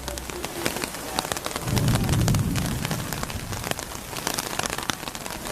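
Rain falling, with many close drop impacts ticking irregularly over a steady hiss. A low rumble swells for about a second, starting just under two seconds in, and is the loudest thing heard.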